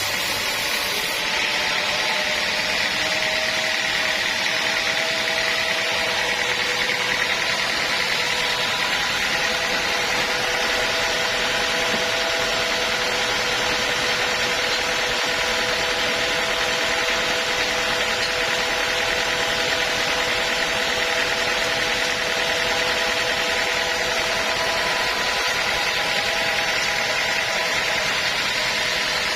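Sawmill saw cutting steadily through a log: a continuous machine whine with several held tones over the noise of the cut.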